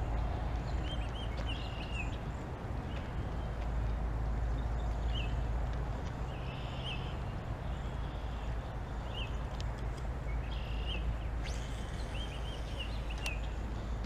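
Birds calling repeatedly with short, high chirps over a steady low rumble. One sharp click near the end.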